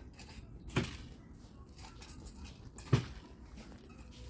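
Two sharp knocks about two seconds apart, with faint clicks between: ratchet-strap hardware being worked while a boat is strapped down.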